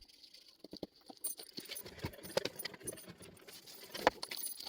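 Metal dog chain clinking and rattling irregularly as it is handled, with a louder clack about four seconds in.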